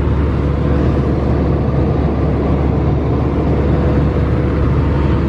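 Steady cabin noise of an Airbus A320 in cruise, heard from inside the cabin: an even, loud rush of engine and airflow noise, deepest in the low end, with a faint steady hum.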